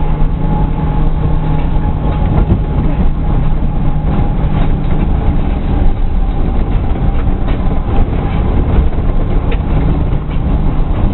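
Osaka New Tram rubber-tyred automated people-mover car running along its guideway: a steady hum with a held tone, and scattered short knocks.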